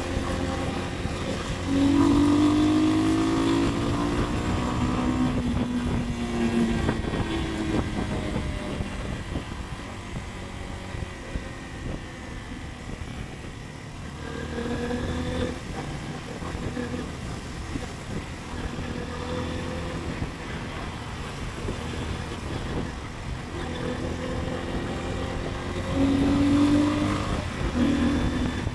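Motorcycle engine rising in revs as it accelerates about two seconds in, then easing off, with further pulls near the middle and near the end, over steady road and wind noise.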